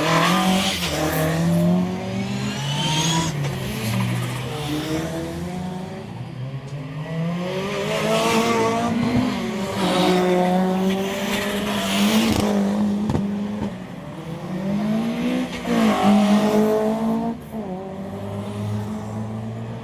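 Rally car engine revving hard, its pitch rising and falling again and again, with bursts of tyre squeal as the car is thrown around in donuts.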